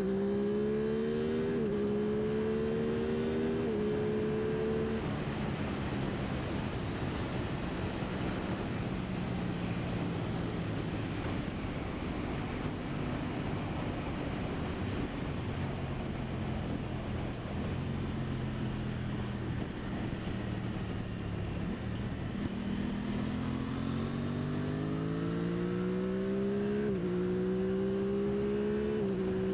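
2023 Aprilia Tuono 660's parallel-twin engine under way, heard from the rider's position with steady wind noise. The engine pulls up through the gears with two upshifts in the first few seconds, drops to lower revs and eases off through the middle, then accelerates again with upshifts near the end.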